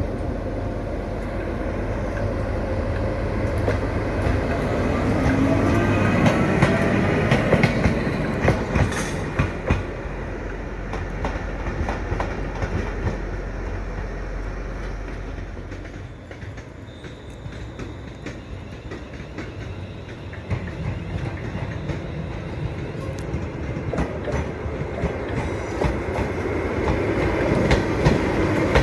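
Class 90 electric locomotives running light engine, their wheels clicking over rail joints. A rising whine comes through a few seconds in; the sound eases off past the middle, then builds again with quick wheel clicks near the end.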